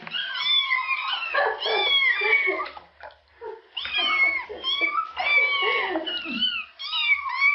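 A cat meowing over and over in short cries that rise and fall in pitch, with a brief pause about three seconds in.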